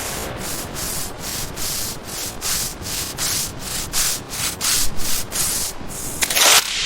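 Back-and-forth rubbing strokes with a hiss, about three a second, with a longer, louder stroke near the end.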